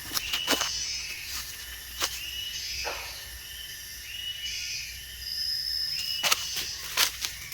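Forest ambience: a high chirping call repeats about once a second, and a brief higher whistle sounds near the end. Sharp, irregular clicks and crackles run through it, the sound of footsteps on dry leaves and twigs.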